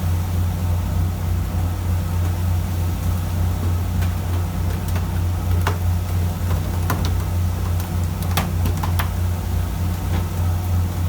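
Fishing boat's engine running with a steady low drone, and a few sharp clicks or knocks about halfway through.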